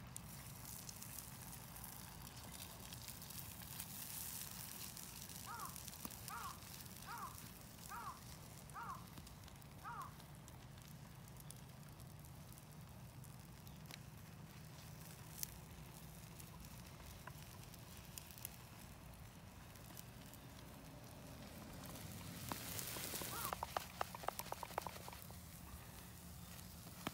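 Quiet outdoor ambience with a faint wood campfire crackle. A run of six short, evenly spaced chirps comes about six to ten seconds in, and a brief clatter of clicks near the end.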